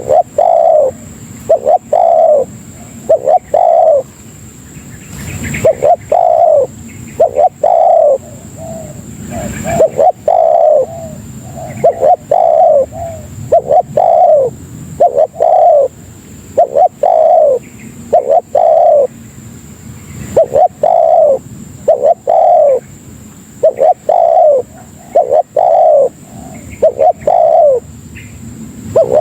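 Spotted dove (tekukur) cooing over and over in short phrases of two or three falling coos with brief pauses between phrases.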